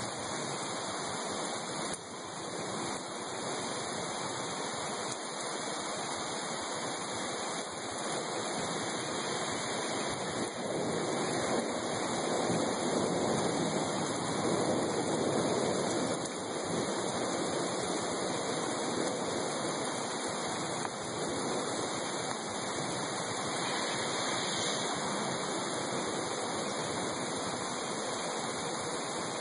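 Heavy rain pouring down steadily, swelling louder for several seconds around the middle.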